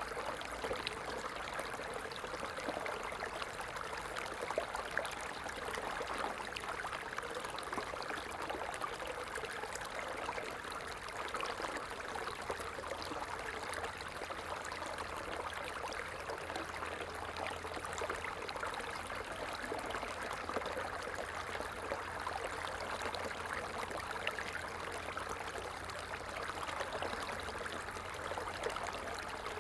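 Stream water flowing and splashing steadily over rocks, an even rushing with fine trickling detail.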